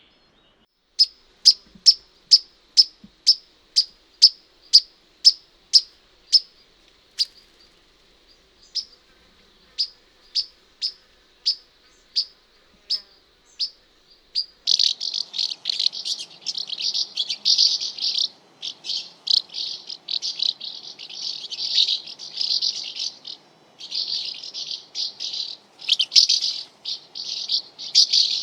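A flycatcher, which the uploader takes for a pied flycatcher, giving a run of short, sharp, high call notes about one or two a second that grow fainter and sparser. About halfway through, house martins take over with a dense, continuous high twittering chatter.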